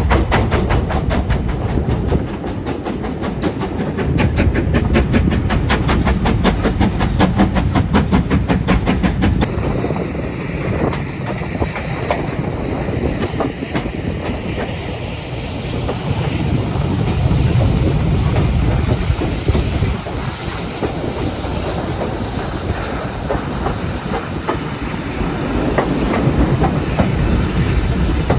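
Steam-hauled train on the move behind GWR 5600-class tank engine 5619. A fast, even beat of about four or five strokes a second gives way, about a third of the way through, to a steadier rumble of wheels on rail.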